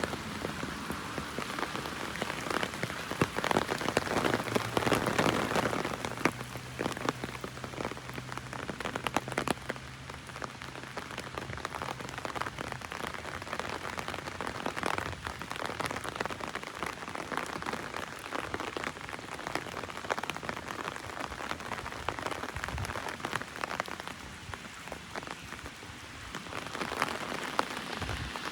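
Heavy rain drumming on an umbrella overhead: a dense, continuous stream of individual drop hits, rising and falling a little in strength.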